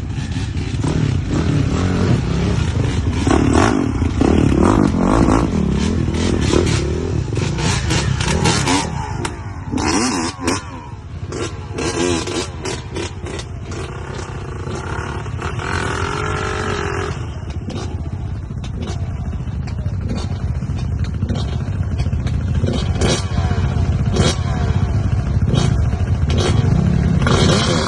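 Off-road vehicle engine running and revving up and down, with frequent clatter and knocks throughout.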